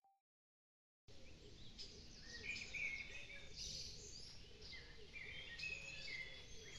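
Several small birds chirping and singing over faint outdoor background noise, starting about a second in after a moment of silence.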